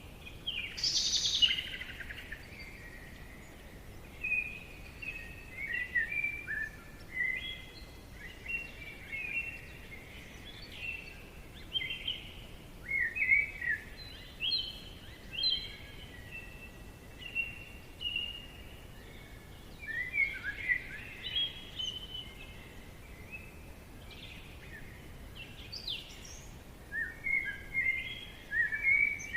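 Songbirds singing and calling in a forest: many short chirps and quick warbled phrases, one after another, over a faint steady hiss, with a louder call about a second in.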